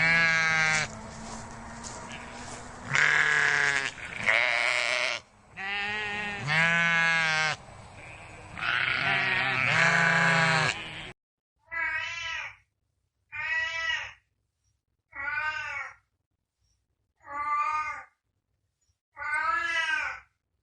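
Livestock bleating: several long, loud bleats over a steady low hum that stops abruptly about halfway through, then five short bleats evenly spaced every second and a half to two seconds.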